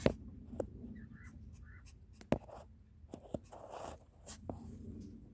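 Scratchy rustling with about six sharp clicks or knocks scattered through it, and two faint short chirps in the first two seconds.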